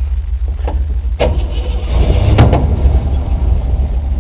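1955 Chevrolet dump truck engine being cranked over in freezing cold, stumbling as it tries to catch, with a steady low rumble and a few sharp knocks. It is a hard cold start on ether and choke.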